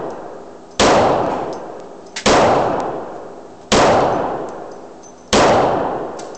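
Ruger P89 9mm pistol fired four times, steady single shots about a second and a half apart, each report ringing out and fading before the next.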